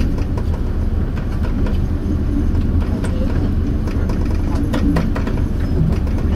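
Pingxi Line diesel train running along the track, heard from inside the front cabin: a steady low rumble with scattered short clicks and rattles.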